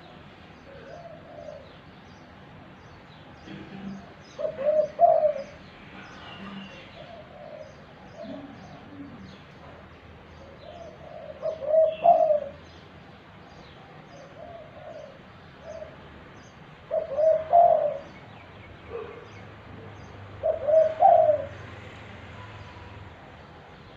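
Spotted dove cooing: four loud multi-note coo phrases several seconds apart, the bird coming into song.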